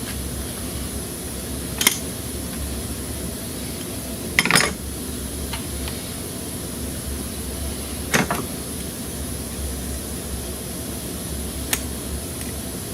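Hand tools and a hose clamp clanking four times against metal under the hood while the lower radiator hose is fitted to the thermostat housing. The second clank, just before the middle, is the longest and loudest, and a steady low hum runs underneath.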